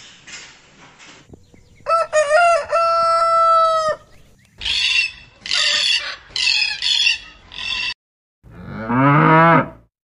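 A rooster crowing, ending on a long held note; then about five harsh screeches from a sulphur-crested cockatoo; then one low moo from a water buffalo near the end.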